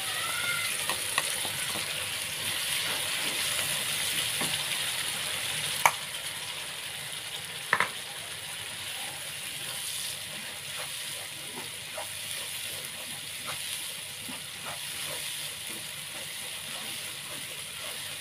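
Ground chili and spice paste sizzling in hot oil in a pan as it is stirred, with two sharp knocks of the utensil against the pan around six and eight seconds in and a few lighter taps. The sizzle eases a little after the first knock.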